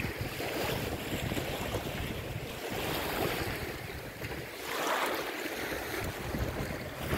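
Wind buffeting the microphone over the wash of lake water, with a swell of water noise about five seconds in.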